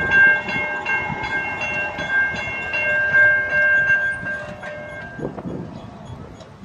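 Diesel locomotive horn sounding a multi-note chord as a train approaches, held for about five seconds with brief breaks and then cut off, over the rumble of the passing train.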